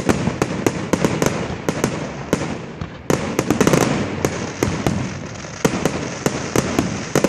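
Fireworks display: sharp bangs going off several times a second at irregular intervals, with continuous crackling filling the gaps between them.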